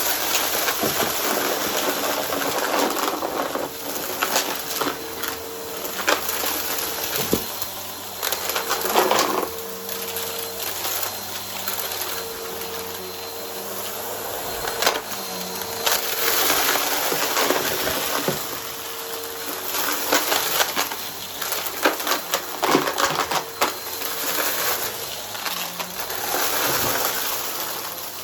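A vacuum cleaner running with its brushroll, crunching and crackling through dry debris on the floor, with dense clicks from bits being struck and sucked up. The motor's steady hum drops in and out, and the loudness surges as the vacuum is pushed back and forth.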